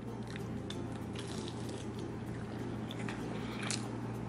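A person chewing a bite of quesadilla, with a few faint mouth clicks and smacks, over a steady low hum.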